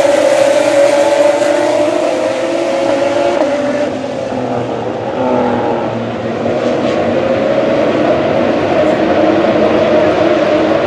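A GP3 race car's 3.4-litre V6 engine running hard at high revs. Its pitch sags a little, the sound dips briefly about four seconds in, then the pitch slowly climbs again.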